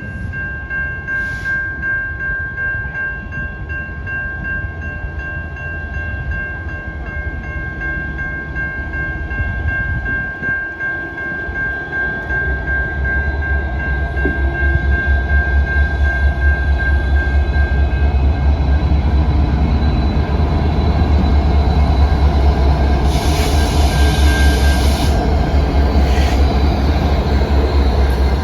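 CN freight train's diesel locomotives and cars running by, the deep engine rumble growing much louder about halfway through and staying loud. A steady high-pitched tone sounds over the first half, and a short hiss cuts in near the end.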